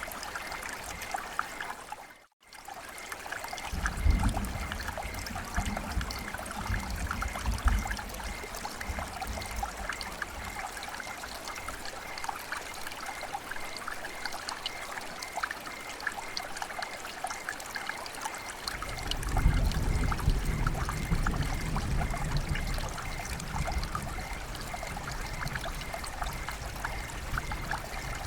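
Rain and running water: a steady, dense patter of drops over a wash of flowing water. The sound cuts out briefly about two seconds in, and a low rumble swells twice, near the start and again past the middle.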